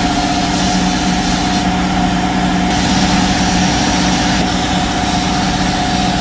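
A power tool running steadily at constant speed: a loud even hiss over a fixed motor hum.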